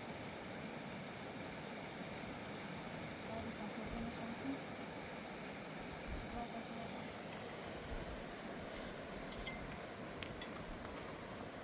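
A cricket chirping steadily, a regular run of short high-pitched chirps about three or four a second.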